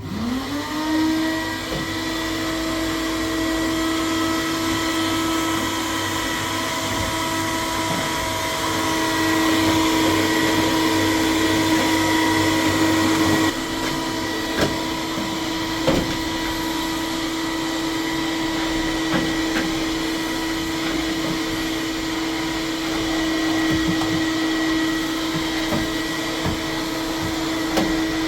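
Electric vacuum cleaner switching on, its motor whine rising in pitch for about a second before settling into a steady run. About halfway through its sound shifts and gets a little quieter, and a few sharp clicks follow soon after.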